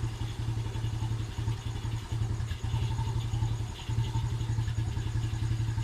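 Motorcycle engine idling steadily with an even low pulsing rumble.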